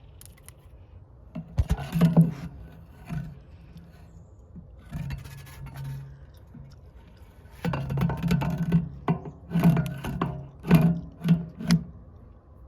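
Metal parts and tools being handled: irregular clanks, knocks and rattles in two busy spells, a short one about two seconds in and a longer one in the second half.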